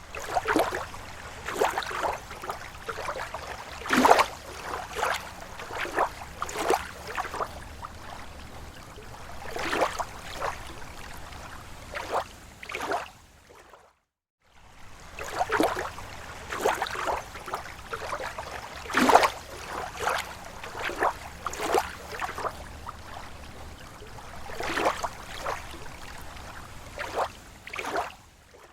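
Small, slow waves lapping at a lake shore: irregular slaps and splashes of water over a steady low wash. The sound breaks off into silence for a moment midway, then the same stretch of lapping starts over.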